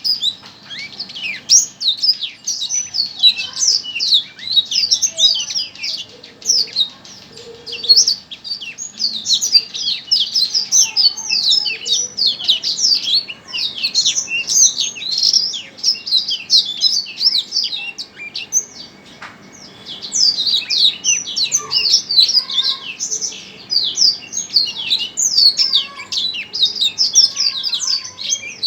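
A small songbird sings a fast, high twittering song of rapid chirps and short down-slurred notes, almost without a break. The song pauses briefly a little past the middle, then resumes.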